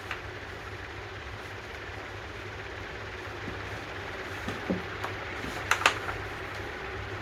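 Steady low hum, with a few faint clicks and a cluster of sharp clicks and knocks about six seconds in.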